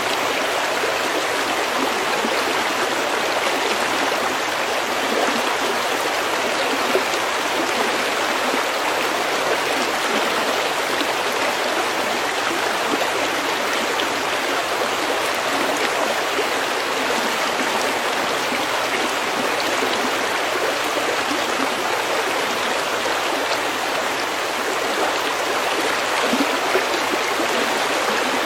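Stream water running over pebbles, a steady unbroken babbling rush with no pauses.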